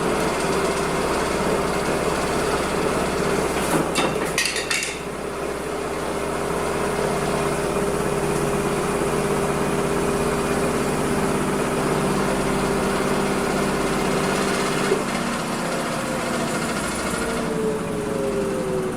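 Washing machine running: a steady mechanical hum and whine from the motor, with a brief rattling clatter about four seconds in. Near the end the motor whine changes and falls in pitch.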